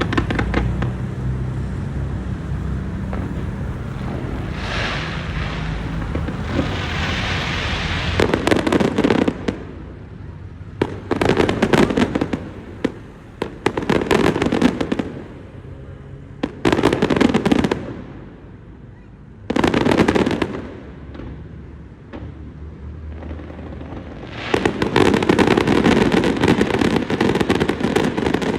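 Fireworks display: volleys of dense crackling bangs come in groups of a second or two, with short lulls between them, building to nearly continuous crackling near the end.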